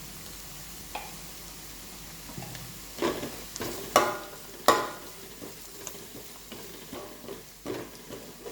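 Crushed ginger, onion and curry leaves frying in sesame oil, sizzling steadily, while a spoon stirs and knocks against the pan a few times. The sharpest knocks come about three to five seconds in.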